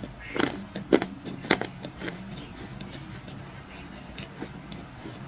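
Crunchy clay being crushed, with three sharp cracks in the first second and a half, then fainter crackles.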